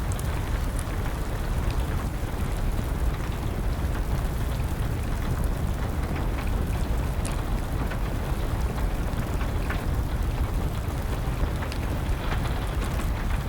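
Steady rain with a low rumble, and a wood fire crackling over it in scattered sharp pops.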